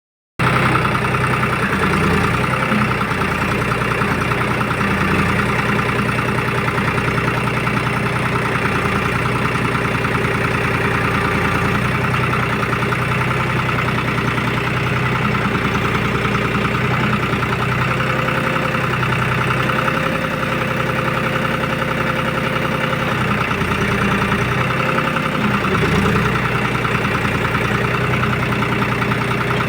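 Tractor's diesel engine running steadily while powering a tractor-mounted backhoe digging soil.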